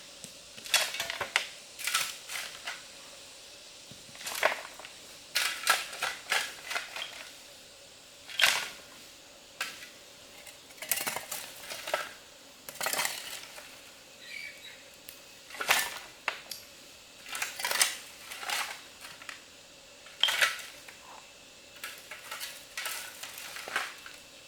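Cookware and utensils clinking and knocking against each other in an irregular run of sharp clinks, about one or two a second.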